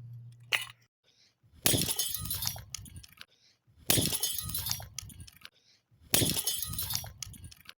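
Three hard smashing impacts about two seconds apart on a plastic-and-metal toy part, each with a crash and a short clatter of breaking pieces.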